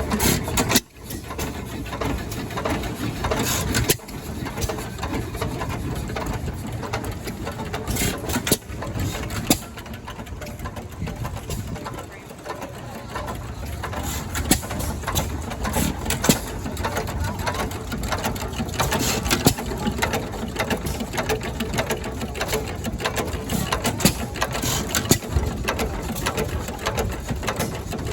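An engine running steadily with a rapid mechanical clatter of clicks and knocks.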